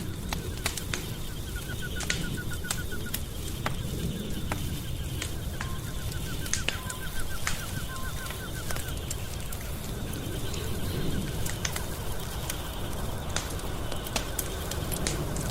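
Wood fire crackling, with sharp irregular pops over a low steady rumble. Short trains of quick, high-pitched chirping come and go behind it.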